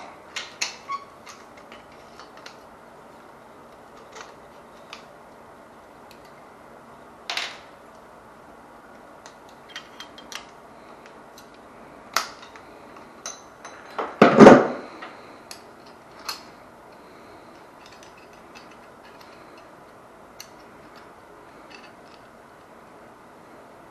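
Scattered clicks and clinks of hand tools and small metal parts being handled during water heater wiring work, with one louder clatter a little past halfway.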